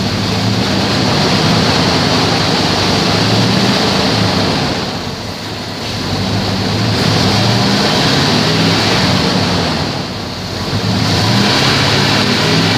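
Straight-piped 1995 Dodge Ram 1500 engine running loud, revved up and held three times with brief easings between, the open exhaust sounding harsh and noisy.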